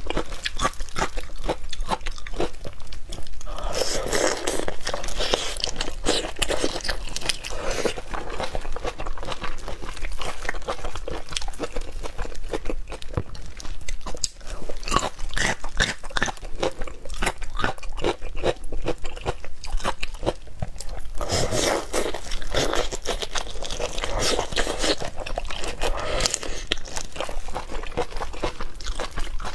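Close-miked eating of shrimp and octopus: continuous biting, crunching and chewing, with many small crunches in quick succession.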